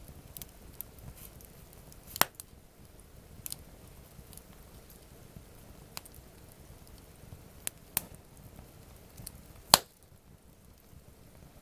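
Campfire of burning wood crackling, with about half a dozen sharp pops scattered a second or more apart, the loudest near the end.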